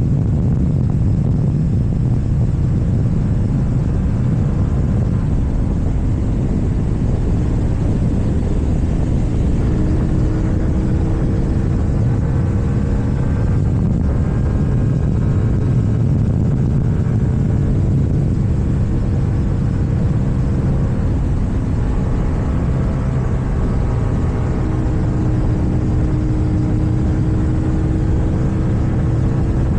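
KTM Duke 790 parallel-twin engine running through an Akrapovic exhaust while riding at a steady pace, under heavy wind rush on the microphone. The engine note climbs gently twice, once in the middle and once near the end.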